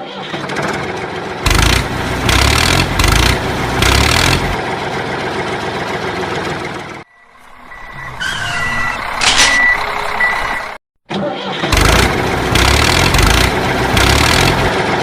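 Tractor engine running in separate stretches with sudden cut-offs between them, pulsing unevenly. In the middle, a short steady high tone sounds briefly.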